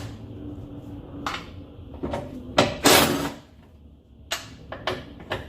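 Irregular metal clanks and knocks with a short louder scrape about halfway through, from tools and parts while the front strut's top mount bolts are taken off and the strut is worked out of the wheel well.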